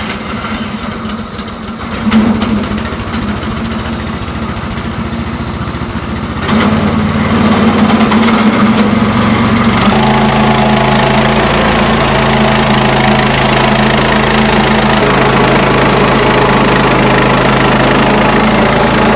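Small petrol engine of a portable bandsaw sawmill running. It steps up in loudness about two seconds in and again, more strongly, at about six and a half seconds, then holds a steady, loud note with a deeper tone added from about ten seconds in.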